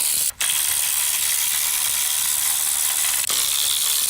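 Steady hiss with the clicking of a ratchet wrench undoing exhaust hanger bolts; the sound briefly cuts out about a third of a second in.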